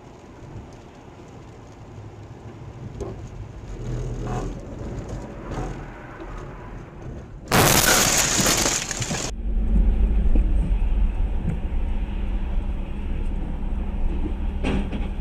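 A vehicle crash: a sudden loud impact and breaking glass lasting about two seconds, over steady road noise. It is followed by a steady low vehicle rumble.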